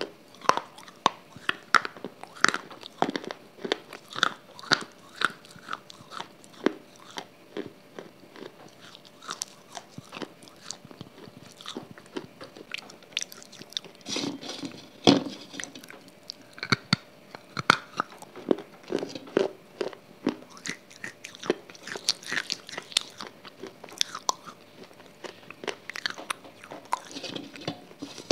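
Close-miked eating sounds: crisp bites, crunching and wet chewing, several a second and irregular, with one louder crunch about fifteen seconds in.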